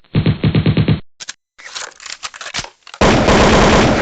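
Machine-gun sound effect: a rapid burst of about a dozen shots a second, then scattered single shots, then a loud blast about three seconds in that fades toward the end.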